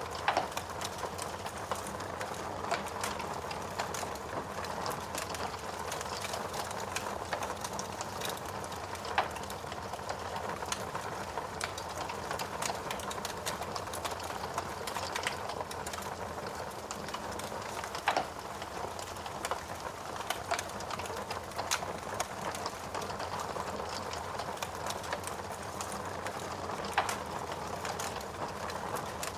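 Steady rain hiss mixed with a wood fire crackling in a fireplace: frequent small irregular snaps, with a few sharper pops standing out every several seconds.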